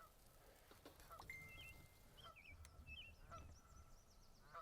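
Faint, scattered bird calls over an otherwise quiet background: a few short wavering notes and one brief held whistle.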